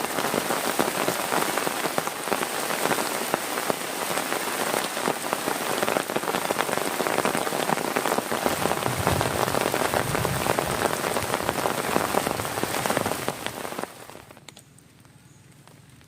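Heavy rain falling, a dense steady hiss full of close individual drop impacts, cutting off suddenly near the end to a much quieter background.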